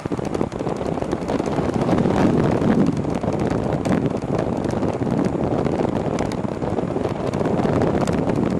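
Wind rushing over the microphone of a moving e-bike, buffeting unevenly with a steady noise of travel beneath it.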